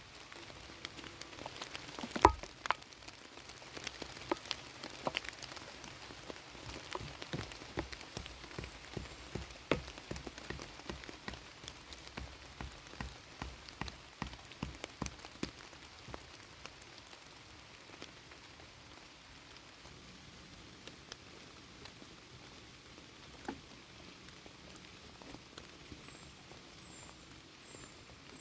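Rain falling, with many separate drops striking close by, dense at first and thinning out after the first half. One louder knock about two seconds in, and faint short high chirps repeating near the end.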